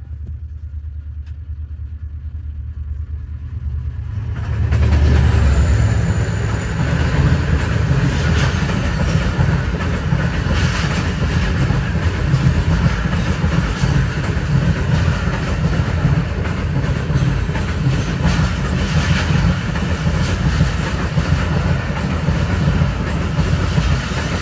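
A passing train: its locomotive comes up with a low rumble, then a line of passenger coaches runs past close by on the next track, the wheels clattering steadily over the rail joints. The noise swells about four to five seconds in and stays loud to the end.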